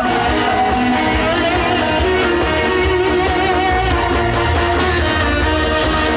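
Live band music, an instrumental passage of an upbeat trot song with a steady beat and no singing.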